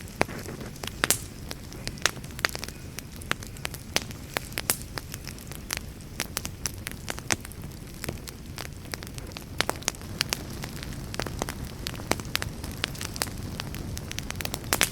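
Fire in a fireplace crackling, with many irregular sharp pops and snaps over a steady low rumble of the flames.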